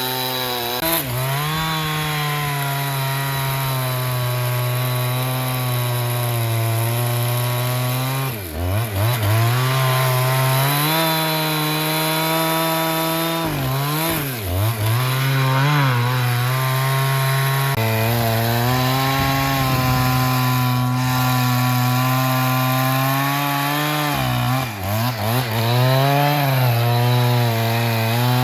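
A sawmill saw running as it cuts a black teak log, a steady machine drone whose pitch sags and recovers three times, about a third of the way in, about halfway, and near the end, as the cut loads it.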